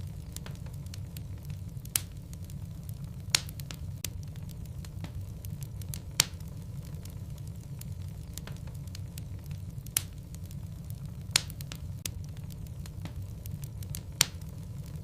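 Wood fire burning in a fireplace: a steady low rumble of the flames with six sharp pops from the burning logs, spaced irregularly a second or more apart.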